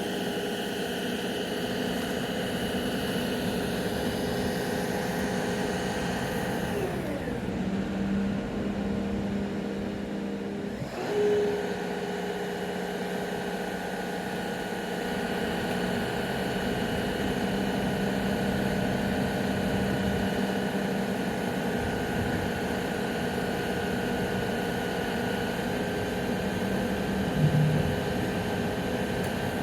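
Steady machinery drone of freight wagons being emptied, several engine-like tones held together. Their pitch falls about seven seconds in and rises again about eleven seconds in, with a brief louder knock near the end.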